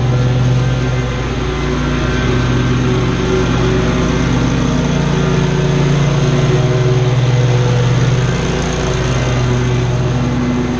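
Small gasoline engine of lawn-care equipment running steadily under load, with a slight rise and fall in level.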